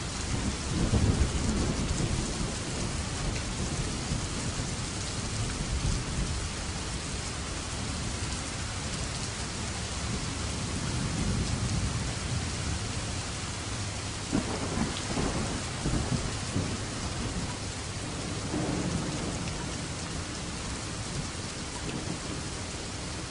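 Steady heavy rain with rolling thunder: a loud low rumble about a second in, further rumbles swelling and fading, and a crackling peal about two-thirds of the way through, easing off near the end.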